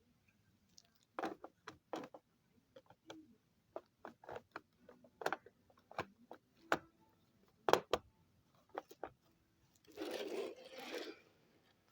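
Irregular light clicks and taps of small objects being handled close to the microphone, with a short scraping rustle near the end.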